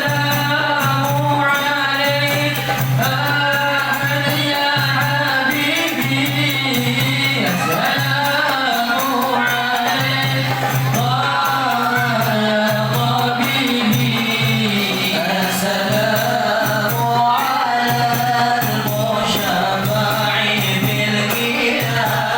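Voices singing a qasidah, a melodic devotional chant, with tambourine-like hand percussion.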